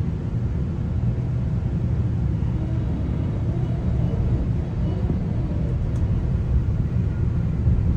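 GO Transit bilevel commuter train running between stations, heard from inside a coach: a steady low rumble of wheels on rail and the moving car.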